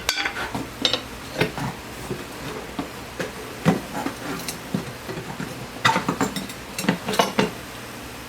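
A soap-and-water-lubricated go-kart tire being worked off its metal rim: scattered clinks, knocks and rubbing scrapes, busier in the second half.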